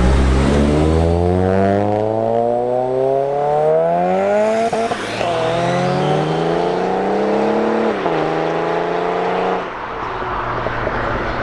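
Car engine accelerating hard through the gears. The revs climb steadily, fall sharply at an upshift about halfway through, climb again to a second upshift, then the throttle closes near the end and the engine note drops away.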